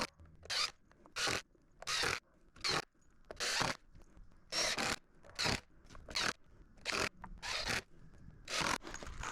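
A hand tool scraping back and forth on wood in steady, even strokes, about one and a half a second, with a slightly longer gap about four seconds in.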